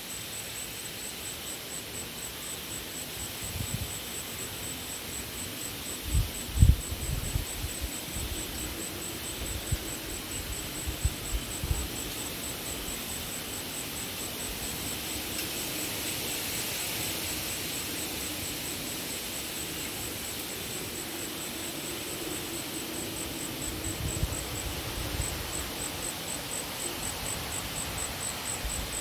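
A cricket's steady, high, rapidly pulsing trill goes on without a break, over strong wind buffeting the microphone in gusts that are heaviest about six seconds in and again near the end.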